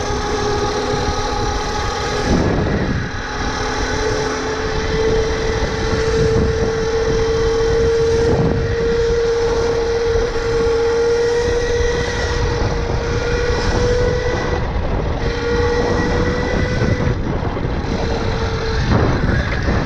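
Electric dirt bike's motor whining with a steady tone while being ridden, the pitch drifting slightly up and dipping briefly a few times, over a low rushing noise.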